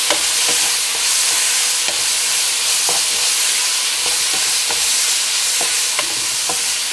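Chicken and bell pepper strips sizzling in a nonstick frying pan with a steady hiss, stirred with a wooden spatula that scrapes and knocks against the pan about once or twice a second.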